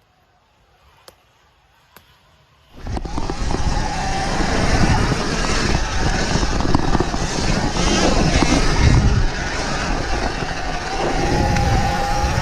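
Sur-Ron Ultra Bee electric dirt bike being ridden over rough trail: dense rumbling and jolting noise with a faint electric motor whine. It starts suddenly about three seconds in, after a fairly quiet stretch with a few light clicks.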